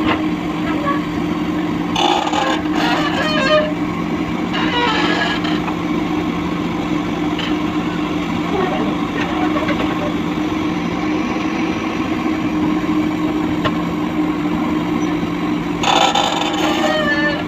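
Diesel engine of heavy machinery running steadily at a constant speed. Brief bursts of higher-pitched clatter come about two seconds in, again at about five seconds, and near the end.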